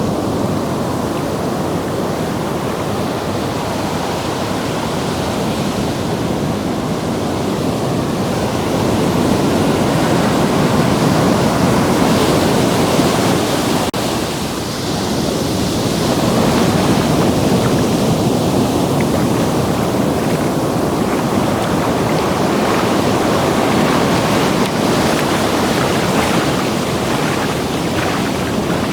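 Ocean surf washing in and out at the water's edge, a continuous rush that swells and eases, with a brief lull about halfway through.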